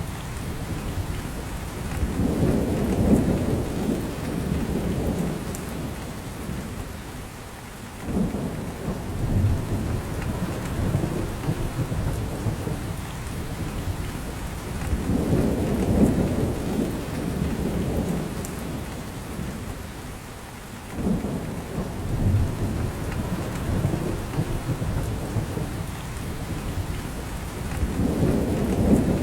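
Steady rain falling on a forest, with low rolling rumbles that swell and fade about every six or seven seconds.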